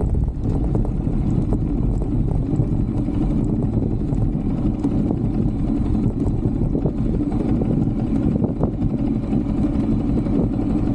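125cc Brixton motorcycle engine running steadily, a loud, even low rumble.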